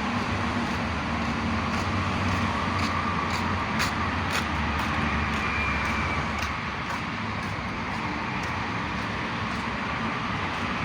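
Train running past: a steady rumble with a run of short clicks, its low drone dropping away about two-thirds of the way in.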